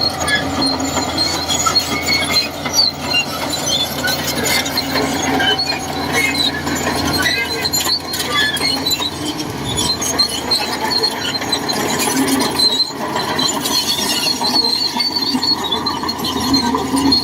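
Shantui DH17C2 crawler bulldozer working: the diesel engine runs steadily under a continuous stream of short, high-pitched squeaks and clinks from the steel tracks and undercarriage.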